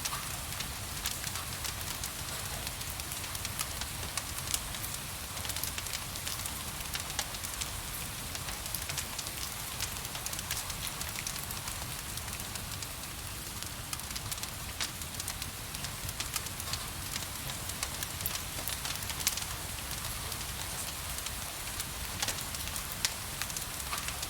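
Wood fire crackling in a fireplace, with frequent sharp pops, over a steady hiss of gentle rain and a low rumble of flames.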